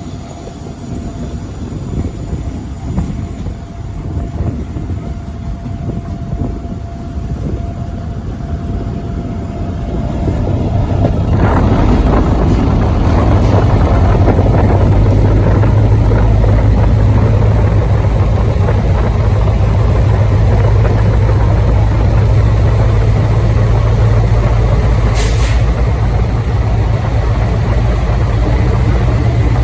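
Diesel locomotive engine running under power, building up about ten seconds in to a loud, steady low drone. A brief hiss comes near the end.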